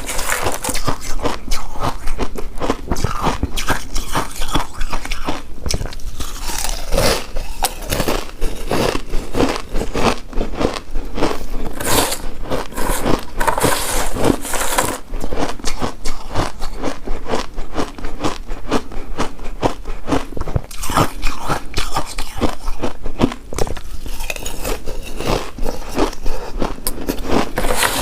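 Close-miked eating of a chewy coconut rice cake coated in shredded coconut: biting and chewing as a dense, unbroken run of small clicks and crackles.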